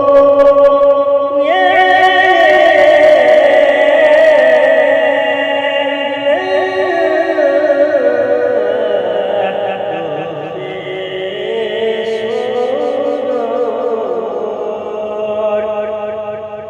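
A tawshih, an Arabic devotional chant, sung solo with an echo effect: long melismatic phrases with wavering held notes that slide slowly from pitch to pitch.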